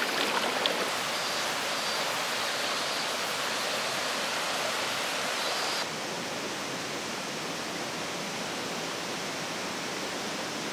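Mountain stream water rushing steadily over rocks, a constant even wash; it drops a little in level about six seconds in.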